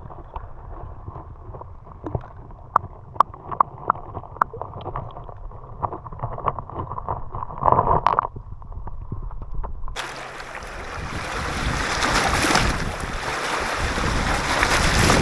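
Pebbles clicking and clattering irregularly over a low wash of water. About ten seconds in, the sound cuts abruptly to a louder, steady rush of wind and surf.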